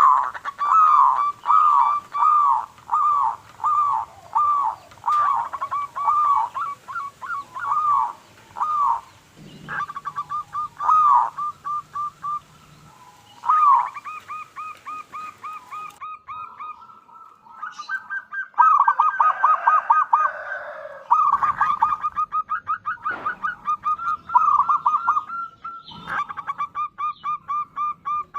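Zebra dove (perkutut) cooing: a long series of short arching notes, a little over one a second, then quicker stuttering runs of rapid notes at the same pitch.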